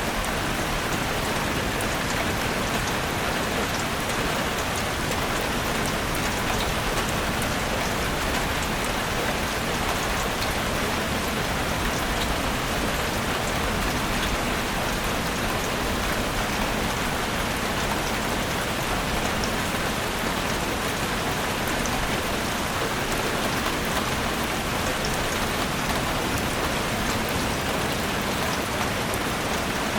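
Steady rain falling in a forest: an even hiss with faint scattered drop ticks, unchanging throughout.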